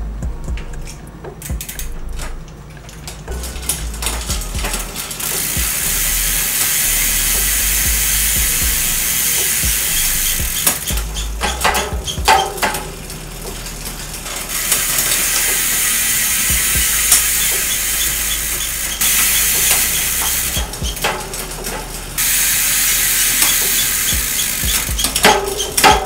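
Mountain bike drivetrain turned by hand: the rear wheel spins with the freehub ratchet buzzing in a fast run of ticks while the chain runs through the Kogel oversized derailleur pulley cage. The buzz stops and starts again several times, with a couple of sharp clunks.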